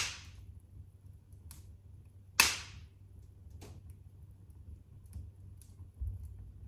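Wood fire crackling in a fireplace: a few sharp pops, the loudest right at the start and another about two and a half seconds in, with fainter ticks between, over a low steady rumble of the burning fire.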